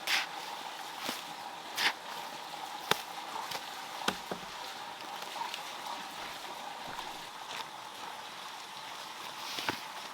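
Steady outdoor background hiss with a faint steady tone, broken by a handful of short sharp knocks and brief scrapes: one right at the start, one near two seconds, two around three and four seconds, and one near the end.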